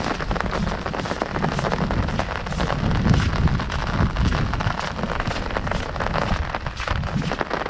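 Heavy rain pattering densely on an umbrella overhead, a steady mass of drop impacts, with a low rumble underneath that swells a few seconds in.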